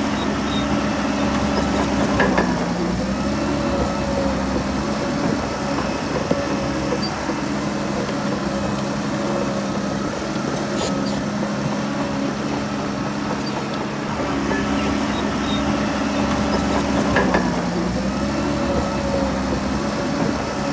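Heavy diesel engine of a crawler bulldozer running steadily, its pitch briefly sagging and recovering twice, about two seconds in and near the end, as it takes load, with a few short metallic clanks.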